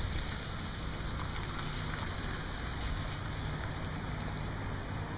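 Steady street traffic noise with a low engine hum from vehicles, such as passing and idling trucks.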